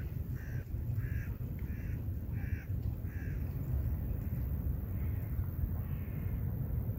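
A bird gives a run of six harsh calls about half a second apart, then two fainter calls, over a steady low rumble.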